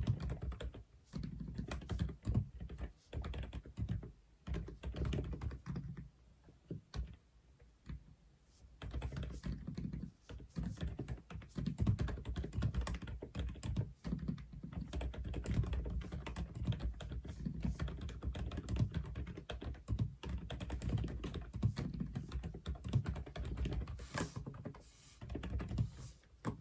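Continuous typing on an Aula F87 (독거미 F87) mechanical keyboard: fast, irregular keystrokes with most of their weight low in pitch. The typing thins out for a couple of seconds about seven seconds in, then picks up again.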